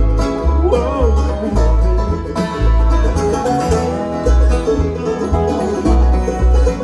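Bluegrass band playing an instrumental passage on banjo, guitar, mandolin, dobro and bass, with bass notes plucked in a steady pulse underneath.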